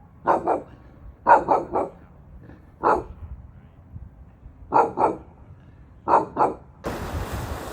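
A dog barking: about ten short barks in quick groups of two or three, with pauses between the groups.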